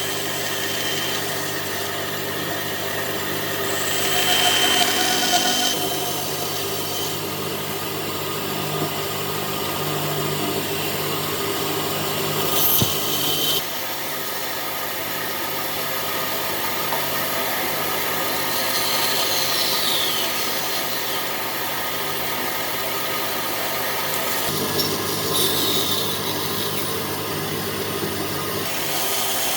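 A power tool running steadily while it cuts or abrades wood, with a rubbing, rasping sound of wood against the tool. There are a few louder spells, one a few seconds in and short ones in the middle and near the end.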